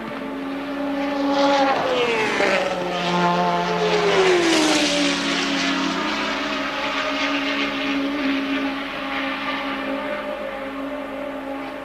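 Formula One race car engines running at speed, the engine note dropping sharply in pitch about two seconds in and again around four seconds, over a steady high engine tone.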